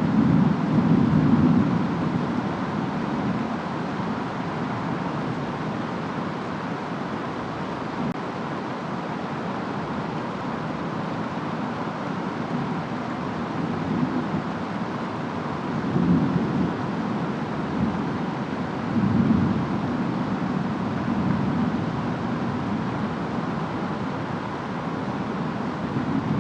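Steady rain and wind noise with low rolls of distant thunder, swelling near the start and twice more about two-thirds of the way through.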